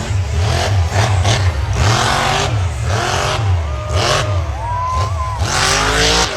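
Monster truck engine revving hard, its pitch rising and falling over and over, with several loud surges.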